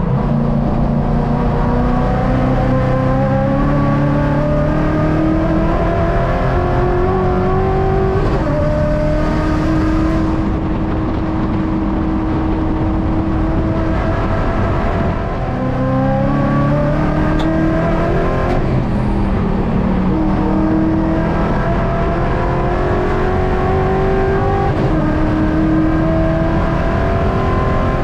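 Race ute's engine heard from inside the cabin, pulling hard through the gears. The revs climb and drop at upshifts about eight, eighteen and twenty-five seconds in. In between they hold steady for a few seconds, then dip briefly about fifteen seconds in before climbing again.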